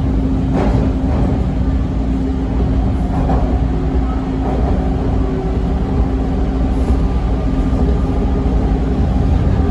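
Steady low rumble and constant hum heard inside a Toronto TTC T1 subway car, with a few faint knocks early on.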